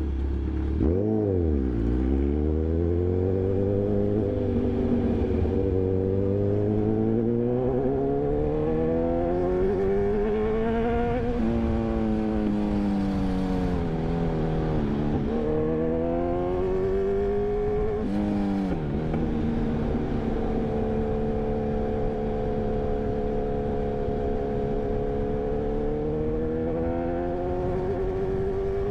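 Kawasaki Ninja 1000's inline-four engine under way, its revs climbing and falling as the rider works the throttle and gears. There are several sharp drops in pitch along the way, then the engine holds a fairly steady note near the end.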